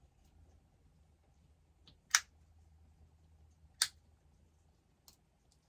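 Two sharp clicks about a second and a half apart, a headlamp switch being switched on and then off to test the newly wired side marker lights, over a faint steady hum.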